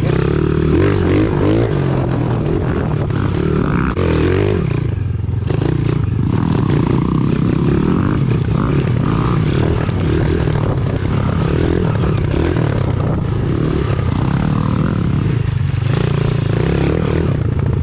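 Pit bike's small single-cylinder engine running under riding load, the revs rising and falling continuously, with clattering and scraping of the bike as it goes.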